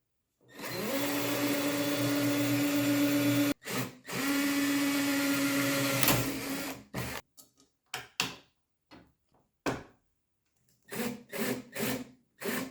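Electric drill running: it spins up and holds a steady whine for about three seconds, stops briefly, and runs again for about three seconds. Several short trigger bursts follow toward the end.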